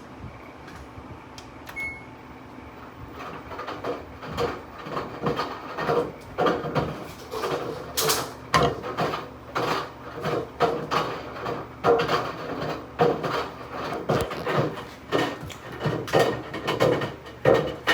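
Front-load washing machine drum turning with a laptop inside, after a short beep near the start; from about three seconds in, the laptop tumbles and bangs against the drum in repeated clunks, about once or twice a second, that grow louder.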